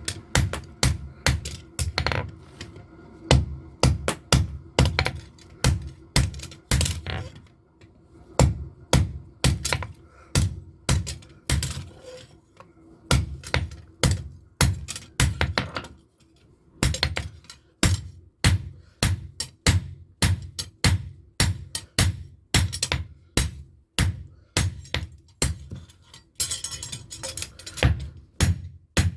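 Blacksmith's hammer striking metal on an anvil while forging a knife blade: runs of two to three ringing blows a second, broken by short pauses.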